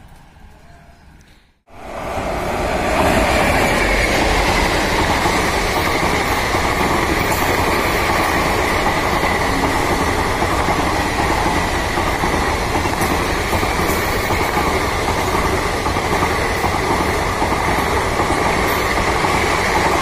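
Express passenger train of coaches running through at speed close by: a loud, steady rush and rumble of wheels on the rails. It starts abruptly about two seconds in, after a moment of quiet.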